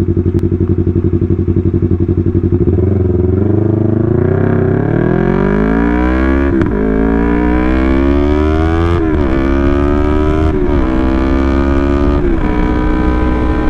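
Yamaha R3 parallel-twin engine through a loud aftermarket exhaust, running at low revs, then accelerating away. The revs climb and drop back at three upshifts before settling into a steady cruise.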